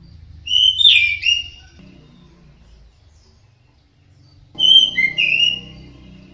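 Orange-headed thrush singing two short phrases of clear, gliding whistled notes, one about half a second in and another about four and a half seconds in.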